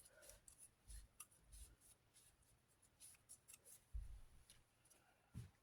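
Faint, irregular rubbing and wiping strokes from cleaning the outside of a desk fan by hand, with a couple of soft low bumps of the fan being handled.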